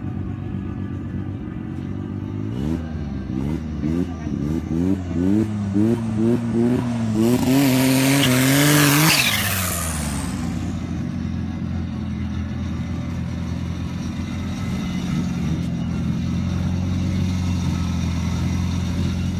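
A drag car's engine is blipped up and down in quick revs about every two-thirds of a second, then held at high revs with a harsh rushing noise as it does a burnout to warm its tyres and drives off, the sound falling away. After that a Honda Civic EG hatchback's engine idles steadily close by.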